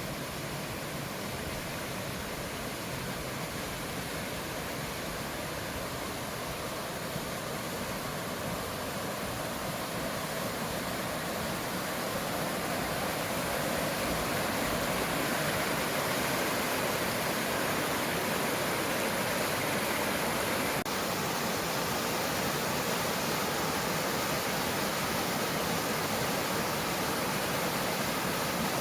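Mountain stream water rushing steadily over rocks, growing a little louder about halfway through.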